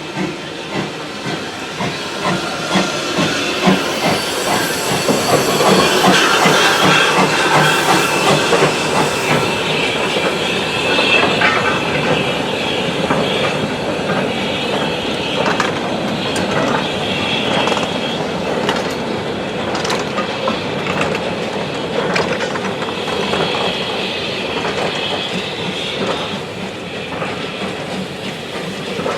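A steam-hauled train running along the line: a steady rumble of wheels on rail with scattered clicks, loudest a few seconds in.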